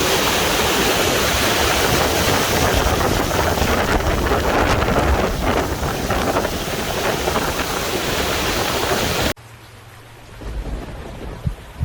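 High river water rushing through irrigation headgates: a loud, steady rush of noise that cuts off suddenly about nine seconds in. After it come a quieter background and a few faint low thumps.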